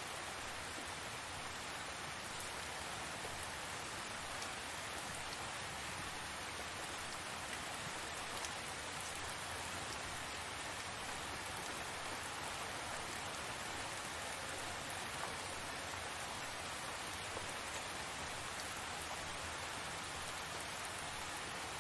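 Steady rain falling, an even hiss of many drops with a few faint distinct drip ticks.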